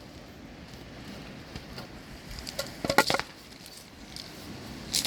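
Axe striking firewood: a quick cluster of sharp wooden knocks about three seconds in, and one more knock near the end.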